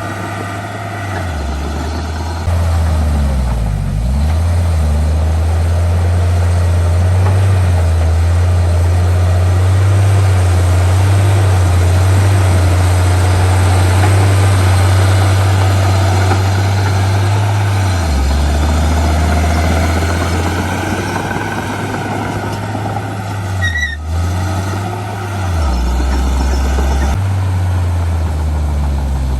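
Heavy diesel engine of earthmoving machinery running under changing load. Its deep, steady note steps up about two and a half seconds in and dips briefly about four seconds in. It shifts again past the middle and near the end.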